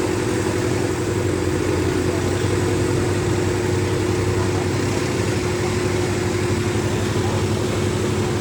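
Diesel tractor engine running steadily at constant speed, a continuous even hum that does not rise or fall.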